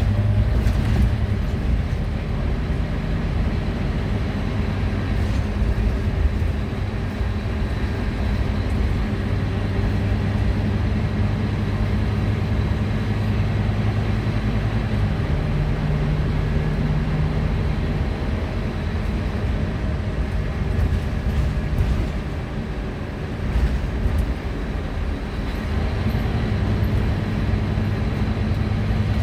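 Scania single-deck bus heard from inside the passenger cabin: the diesel engine runs steadily under way over road and body noise, its note shifting up and down a few times as the bus changes speed and gear, with a short easing-off a little after the middle.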